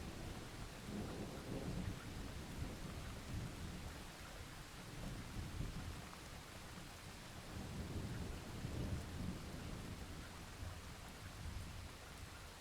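Steady rain with low thunder rumbling under it, swelling and easing a few times; the rumble dies down near the end.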